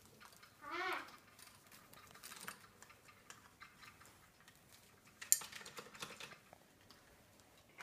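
Cape parrot playing, with scattered light clicks and taps throughout, a short warbling call about a second in, and a sharper, louder knock a little after five seconds.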